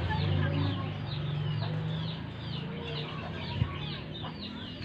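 Pleci dakun white-eye singing hard: a continuous run of short, high, falling notes, about three a second, over a low droning hum, with a single knock about three and a half seconds in.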